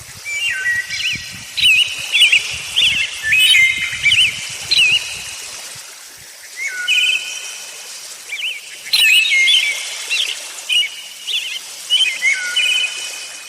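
Birds calling, a busy series of short whistled and warbling chirps in two bouts with a brief lull about halfway through.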